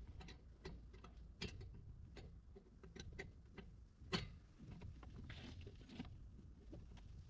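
Faint, irregular clicks and taps of a hand wrench working a loose manifold bolt, with one sharper metal knock about four seconds in.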